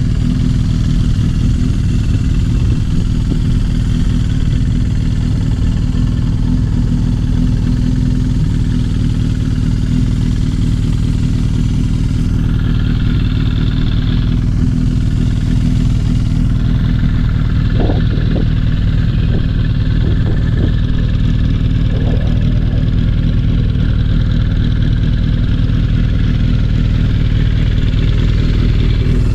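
Suzuki GSX750E air-cooled inline-four idling steadily through an aftermarket Kerker exhaust, a loud, even, low exhaust note.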